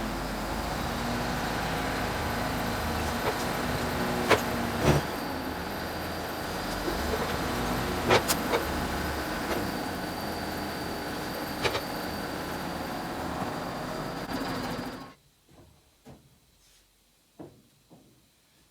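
A machine running steadily with a faint high whine and a few sharp clicks, shut off abruptly about fifteen seconds in, leaving only faint scattered knocks.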